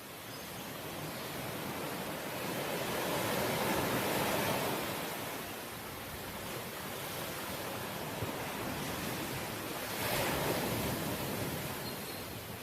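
Sea waves washing in. The noisy surge swells twice, building to a peak about four seconds in and again about ten seconds in.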